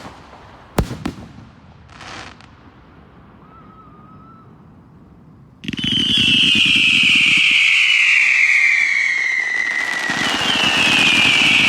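Fireworks display: a single sharp bang about a second in, then, starting suddenly about halfway, a loud whistling firework whose shriek falls slowly in pitch over about four seconds. A second falling whistle follows near the end.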